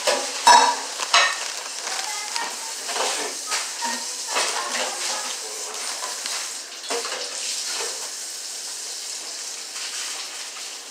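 Close-up chewing and lip-smacking of someone eating, a run of irregular wet clicks and smacks that is busiest in the first half and thins out later.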